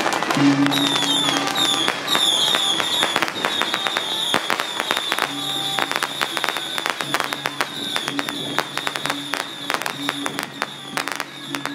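Firecrackers going off in rapid, irregular cracks, over a steady high-pitched whistle and a low humming tone that drops out for a few seconds and comes back.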